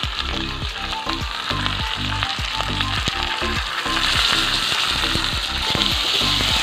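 Ginger and green chilli paste sizzling in hot oil with fried potato wedges in a metal kadai, stirred with a metal spatula; the sizzle grows louder about four seconds in. Background music with a regular beat plays underneath.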